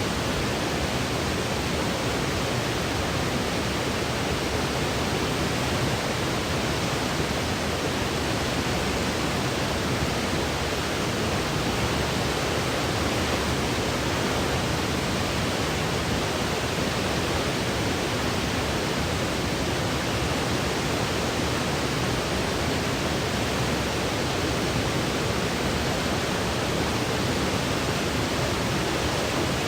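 Steady white noise for sleep: an even, unchanging hiss with no breaks or variation.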